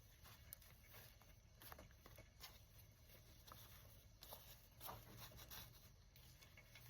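Near silence, with faint scattered rustles and light clicks of a ribbon being tied into a bow around a handmade journal.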